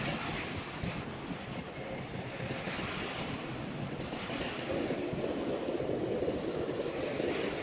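Ocean surf washing in waves, with wind buffeting the microphone. The surf swells and eases, loudest from about five seconds in.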